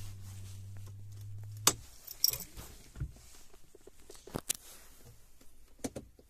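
Volkswagen Golf Mk4 idling with a steady low hum that stops at a sharp click of the ignition key about a second and a half in as the car is switched off. A few scattered clicks and the rattle of the keys follow.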